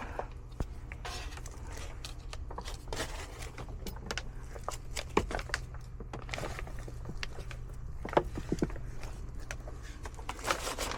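Scattered small clicks, knocks and scrapes of hands and tools working on a condensate pump installation, over a steady low hum.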